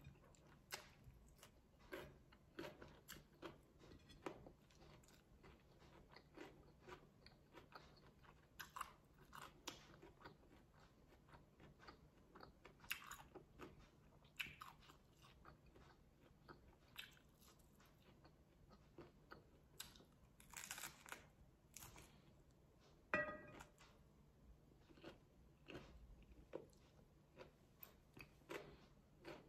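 A person eating a lettuce-wrapped taco: faint chewing and crunching, with many short crackles of bites into the crisp lettuce and a couple of louder crunches about two-thirds of the way through.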